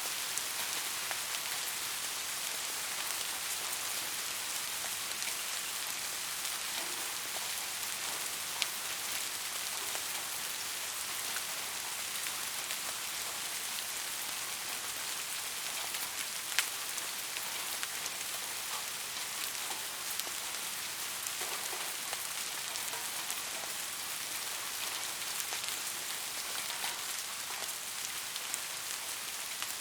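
Steady rain falling, an even hiss with scattered single drop ticks; two drops stand out more sharply, one about a third of the way in and one a little past halfway.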